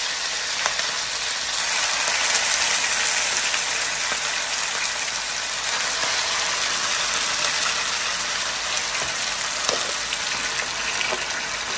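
Marinated beef strips sizzling steadily in hot oil in a wok, with a few light clicks of a plastic spatula scraping more strips in from a glass bowl.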